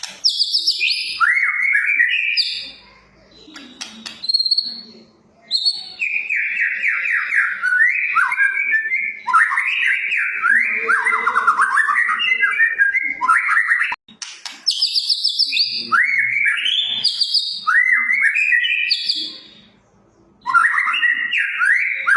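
White-rumped shama (murai batu) singing loudly: long phrases of fast, sliding notes, broken by short pauses.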